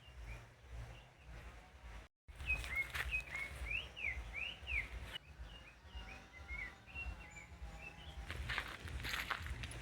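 Birdsong outdoors: a bird sings a quick run of repeated rising and falling whistled notes, followed by scattered shorter chirps, over a low background rumble.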